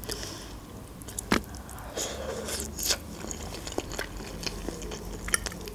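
A person quietly chewing a mouthful of shrimp pasta in cream sauce, with a few sharp mouth clicks scattered through.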